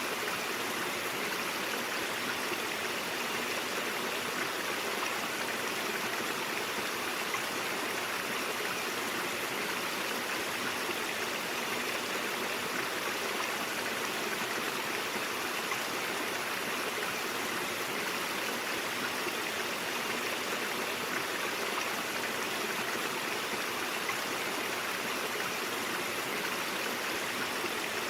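Stream water running over rocks, a steady rushing babble without breaks.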